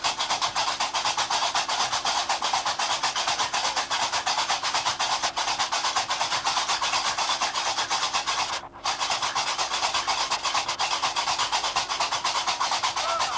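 Qraqeb, the iron castanets of Gnawa music, clattering in a fast, steady rhythm, with a brief gap about two thirds of the way through.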